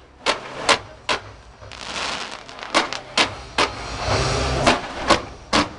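Ground fireworks going off: a string of sharp cracks in three quick sets of three, each set with the cracks just under half a second apart, over the hiss of spark fountains spraying.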